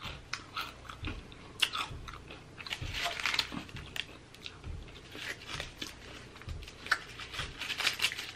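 Close-miked chewing of a person eating: soft, wet mouth sounds and scattered clicks. About three seconds in comes a brief crinkle of aluminium foil as the foil-wrapped burrito is picked up.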